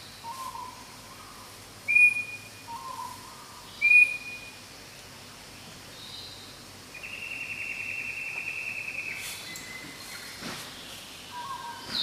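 Forest bird calls: two short, sharp whistled calls about two seconds apart, then a rasping, buzzy call lasting about two seconds, with softer low whistled notes in between.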